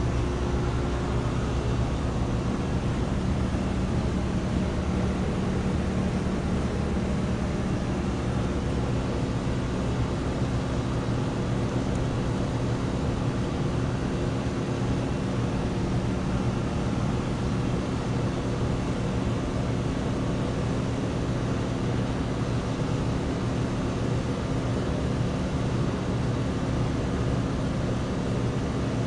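Outdoor heat pump units running steadily: a constant low compressor hum under the even rush of condenser fans.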